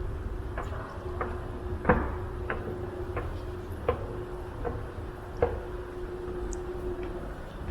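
Footsteps walking at an even pace, a sharp click about every two-thirds of a second, over a steady low hum with a constant tone in it.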